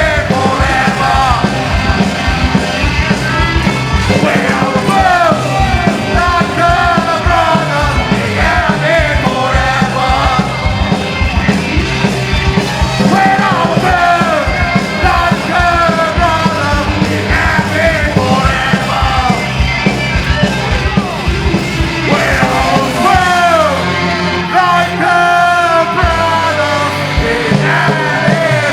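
Punk rock band playing live, with shouted vocals over the band throughout.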